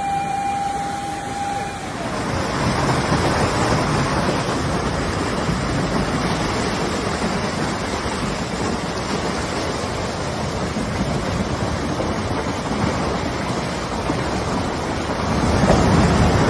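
Floodwater rushing in a steady, dense roar that grows a little louder near the end. A single steady siren tone stops about two seconds in.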